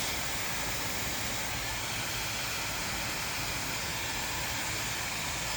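Hair dryer running steadily, a constant airy hiss of its airflow.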